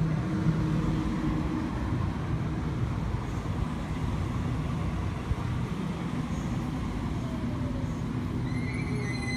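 Sydney Trains Waratah electric train pulling into the platform, a steady rumble and hum with a whine falling in pitch as it slows toward a stop, and short high tones near the end.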